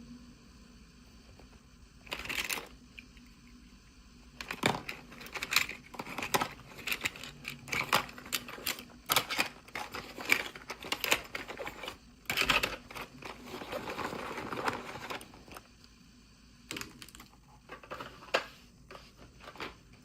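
Small plastic toy pieces and packaging being handled: irregular clicks and taps, with a couple of longer rustling stretches, the longest about two-thirds of the way through.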